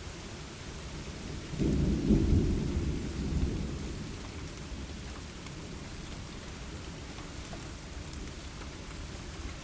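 Steady rain with a clap of thunder about a second and a half in that rumbles low and dies away over the next two seconds or so.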